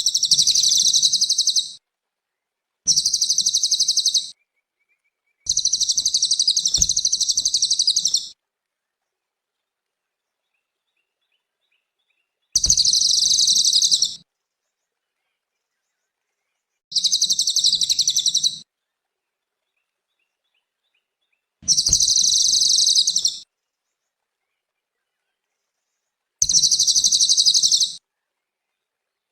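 A cililin songbird singing repeated high, rapid trilling phrases, each lasting about one and a half to three seconds, with silent gaps between them; seven phrases in all.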